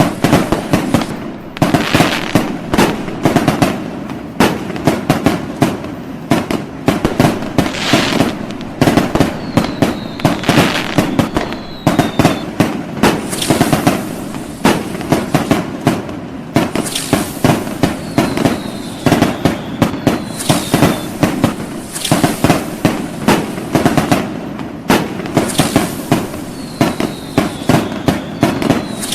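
Fireworks going off nonstop: a dense run of rapid cracks and bangs with louder hissing bursts every few seconds. A thin falling whistle is heard three times, about ten, nineteen and twenty-seven seconds in.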